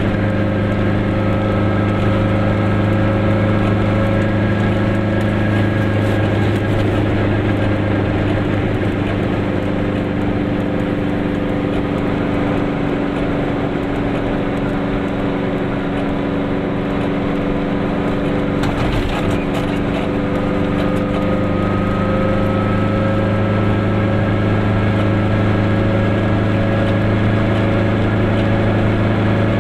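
Goggomobil's two-stroke twin engine running on the move, heard from inside the small car, with road noise. The engine eases off in the middle and picks up again. There is one brief bump about two-thirds through.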